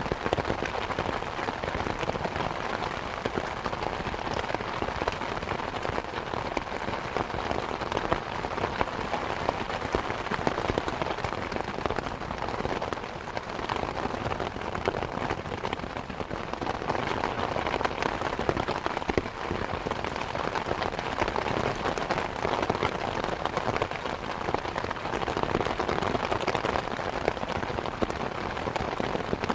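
Steady rain falling, a continuous patter of many drops on surfaces.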